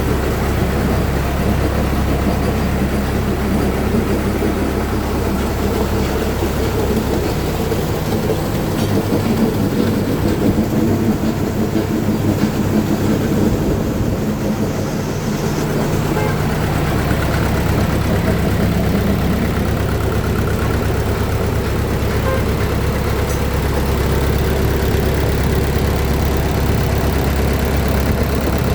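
Mitsubishi PS120 diesel engine, rigged as a sand-pump drive, running steadily. For several seconds in the middle its deep hum drops away and a higher note comes up, then the deep hum returns.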